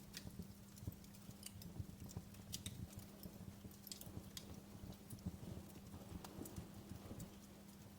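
Wood fire crackling: irregular sharp snaps and pops, several a second, over a low rumble of burning logs, with a faint steady low hum underneath.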